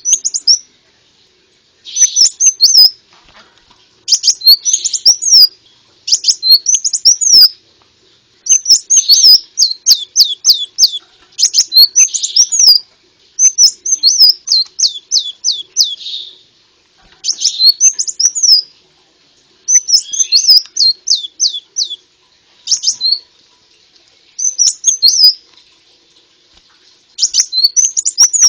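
Konin bird song used as a lure (masteran) recording: bouts of high, sharp chirps and fast runs of short descending notes, repeating every second or two with brief pauses between them.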